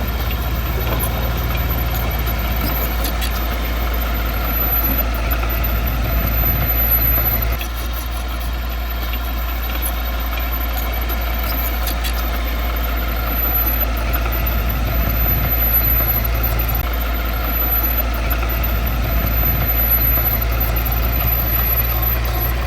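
Heavy construction machine's diesel engine running steadily, with a slight drop in level about seven and a half seconds in.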